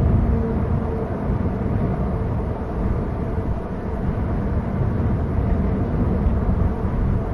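Steady low rumbling outdoor background noise, heaviest in the deep bass, with no distinct events.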